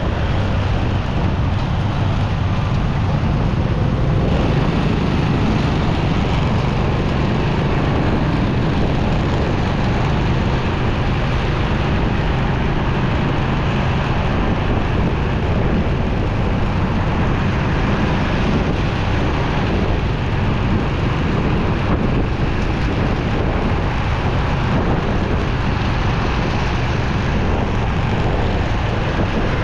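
Motorcycle ride sound: the bike's engine and road noise under a steady rush of wind on the microphone, continuous with no sudden events.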